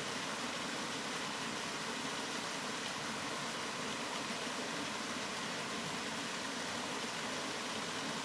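Steady rain as an even, unchanging hiss, with no separate drops, thunder or other events standing out.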